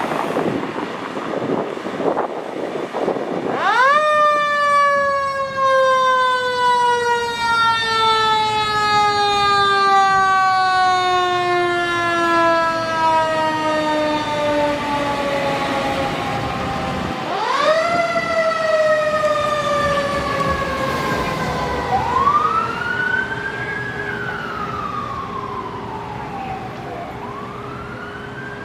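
A fire truck's mechanical siren winds up sharply, then slowly winds down over many seconds. It winds up a second time about halfway through. Near the end, an electronic wail siren sweeps up and down twice over the fading mechanical siren, and a rumble of the truck passing comes before the first wind-up.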